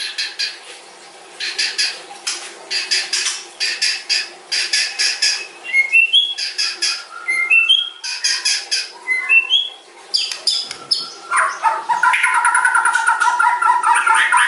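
White-rumped shama (murai batu) singing a long varied phrase: rapid dry rattling notes, then short rising whistles, then a fast continuous trill starting about eleven seconds in.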